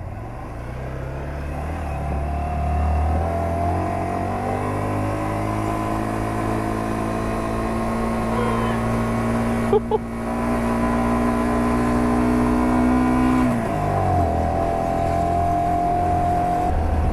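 Honda Varadero 125's V-twin engine pulling up a very steep road, its pitch climbing over the first few seconds and then holding steady under load. About thirteen seconds in the pitch drops sharply and climbs again; there is one short click near ten seconds.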